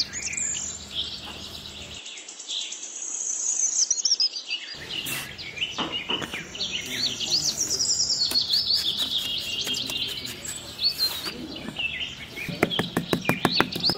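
Small birds chirping and singing busily, many quick high chirps overlapping, with a run of quick clicks near the end.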